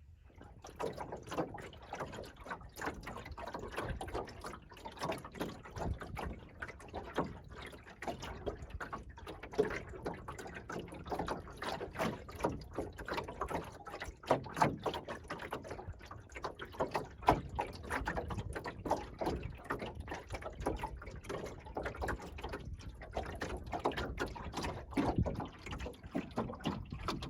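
Water lapping, gurgling and trickling against the hull of a small wooden sailing dinghy, an irregular patter of small splashes that starts suddenly and carries on throughout.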